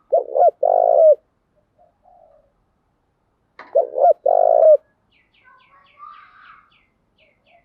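Spotted dove cooing: two loud coo phrases about three and a half seconds apart, each a couple of short notes followed by a longer held coo. Fainter chirps of small birds sound between them, with a quick run of ticking chirps in the second half.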